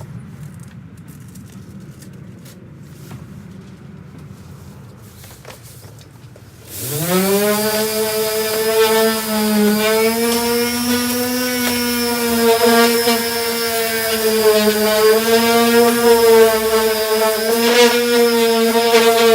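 Electric sander fitted with a 240-grit disc, sanding body filler. It starts about seven seconds in, its motor whine rising quickly to a steady pitch, then runs loudly with a slight waver. Before it starts there are only a low hum and a few faint clicks.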